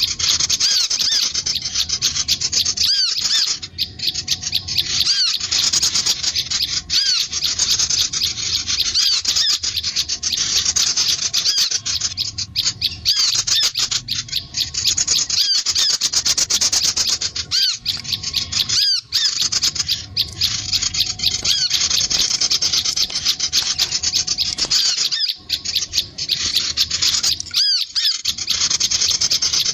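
Dense, unbroken chorus of high-pitched calls from small songbirds (sunbirds and prinias): rapid repeated chips and trills layered over one another, with a few brief breaks.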